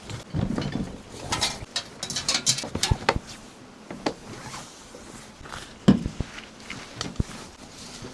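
Irregular knocks, clicks and rustles of objects being handled, densest in the first three seconds, with a sharp knock about six seconds in.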